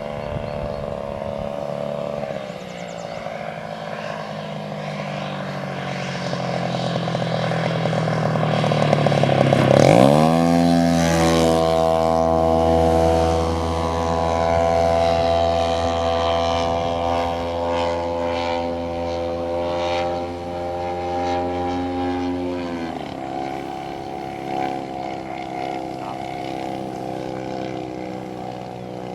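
Engine and propeller of a 1/3-scale Cessna 182 radio-control model running. The engine is throttled up sharply about a third of the way in, held at high revs, then throttled back to a lower steady speed about three quarters of the way through.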